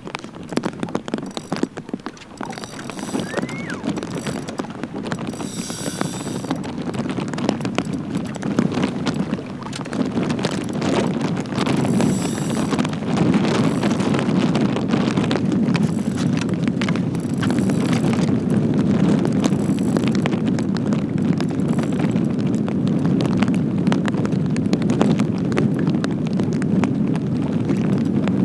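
Wind buffeting the microphone on an open boat, with many small ticks and pattering mixed in. It builds over the first ten seconds or so and then holds steady and loud.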